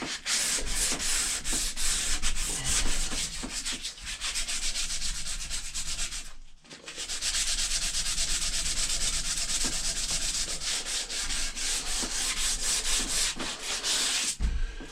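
Sandpaper rubbed rapidly back and forth along a wooden axe handle, a continuous rasping scratch with one short pause about six and a half seconds in.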